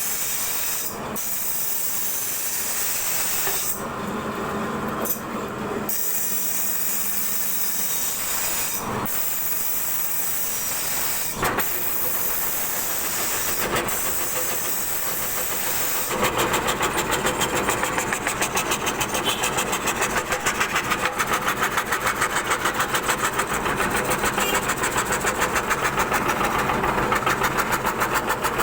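CNC wood carving router running and cutting wood: a steady hissing spindle sound, which about two-thirds of the way through turns into a louder, rapid pulsing as the bit works through the wood.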